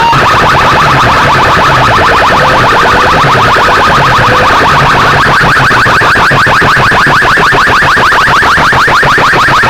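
A DJ sound system played at full volume: a rapid, even pulsing alarm-like tone over a low repeating bass pattern, run straight on after a burst of rising siren whoops.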